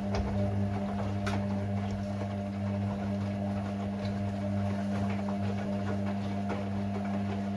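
Hoover Six Sportswear AI130 washing machine running a Speed Wash cycle: a steady motor hum with occasional light clicks.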